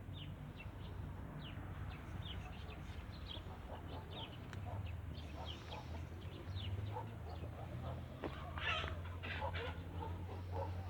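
Farmyard poultry clucking and calling, with many short, high, falling peeps scattered throughout and a busier stretch of calls about eight seconds in, over a steady low hum.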